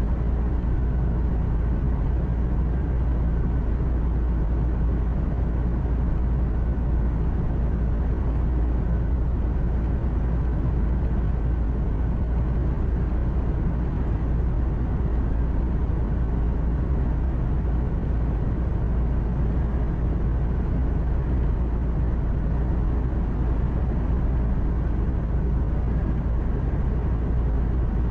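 Steady low drone of a truck engine and road noise heard inside the cab while cruising, with no sudden events.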